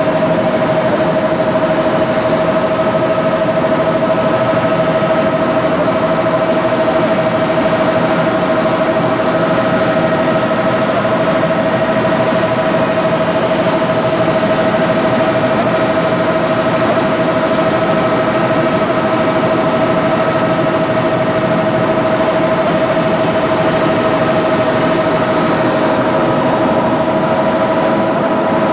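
Helicopter running steadily: a constant high whine over a dense, even rumble, with no change in pitch or level.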